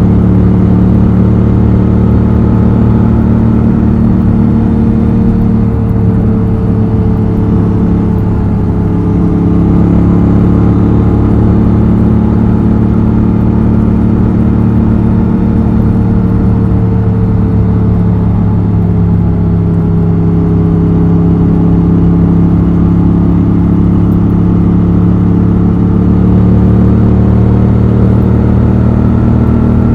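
Honda XL750 Transalp's 755 cc parallel-twin engine and exhaust running steadily under way, its note sinking slowly through the middle and rising again near the end.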